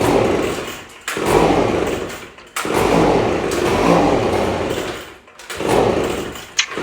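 Echo PB-250LN handheld leaf blower's small two-stroke engine being pull-started on a cold start: four sharp pulls in a row, each a burst of cranking that fades away, with the engine not catching.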